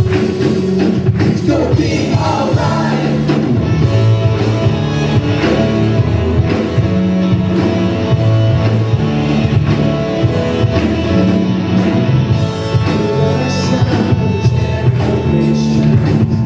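Live worship band playing a song in a rock style, with guitar, bass and singing.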